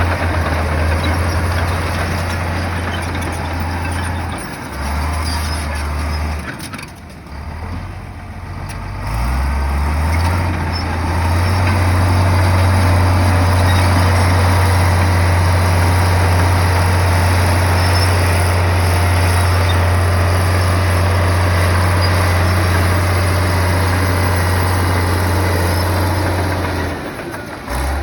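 Komatsu bulldozer's diesel engine running with a strong low drone, easing off for a few seconds about a quarter of the way in, then coming back up and holding steady under load.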